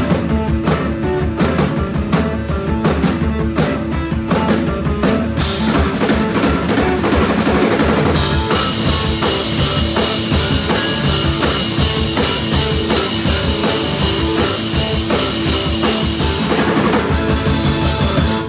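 Live blues trio, with guitar and drum kit, playing the end of a song. From about five seconds in the cymbals wash over everything, thickening further a few seconds later, until the band stops together abruptly at the very end.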